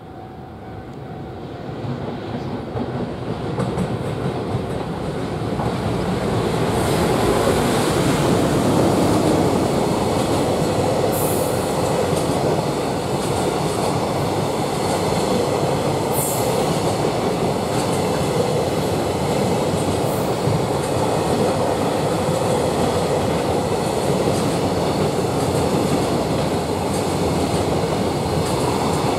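A container freight train hauled by an EF510 electric locomotive, approaching and passing: the running noise of wheels on rails grows louder over the first several seconds, then holds steady as the wagons roll by. Three brief high squeals come through near the middle.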